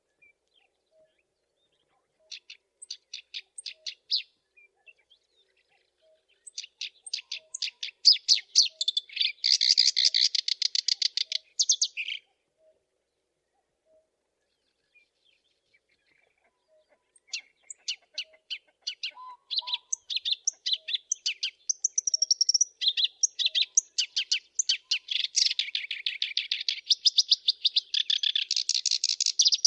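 Black-browed reed warbler singing: fast, scratchy chattering notes that thicken into dense buzzing runs, delivered in three phrases, a short one, a longer one and a long one, with pauses of a few seconds between them.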